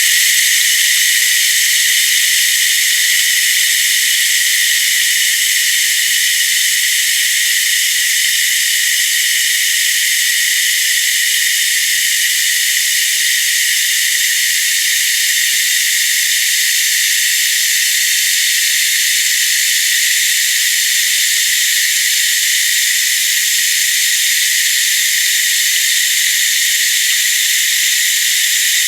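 Running water played through a voice-changer effect: a steady, high-pitched hiss with all the low end stripped away.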